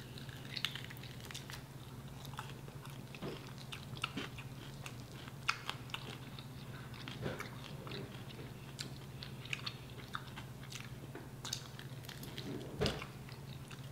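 Close-up eating sounds of chicken wings: biting, chewing and small scattered crunches and mouth clicks, over a steady low hum.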